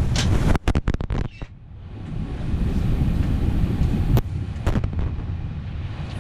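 Steady low rumble inside an Airbus A320 cabin. About half a second in it is broken by a quick run of sharp knocks and brief cut-outs, then dips quiet for a moment and builds back. Two more sharp knocks come a little after four seconds in.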